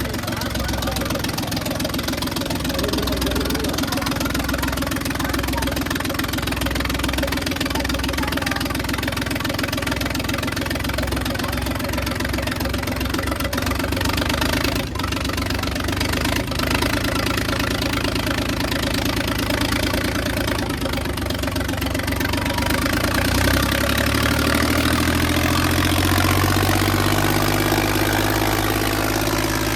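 Diesel tractor engine running steadily under the heavy load of a tug-of-war pull, its speed rising over the last several seconds.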